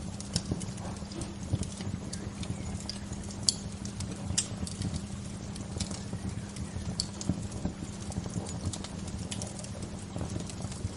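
Wood fire crackling: irregular sharp pops and snaps, a few of them louder, over a steady low background.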